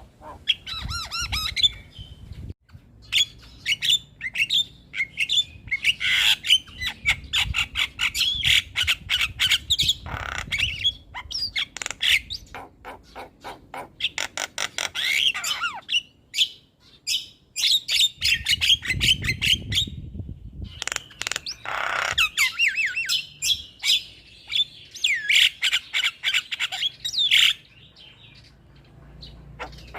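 Javan myna singing: long runs of rapid, harsh chattering notes and whistles, broken by a few short pauses.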